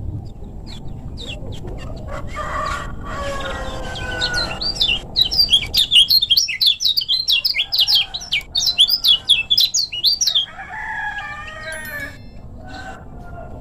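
Kecial kuning (a white-eye songbird) singing: about five seconds of rapid, loud, high chirps, some five a second, in the middle, with lower, drawn-out calls before and after.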